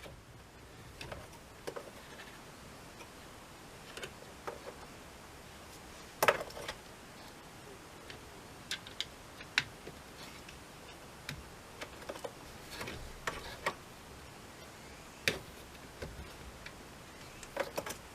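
Irregular light clicks and taps of small hard parts being handled, about a dozen spread out, the loudest about six seconds in and another near fifteen seconds, over a faint steady low hum.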